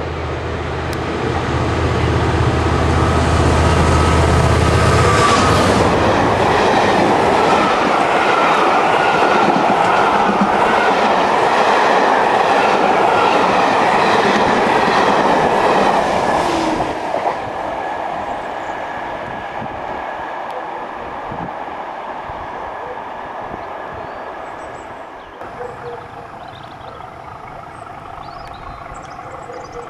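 Diesel-hauled passenger train passing fast: a locomotive engine rumble in the first few seconds, then a long rake of coaches with wheels clicking over rail joints, which dies away about 17 seconds in to a fading rumble.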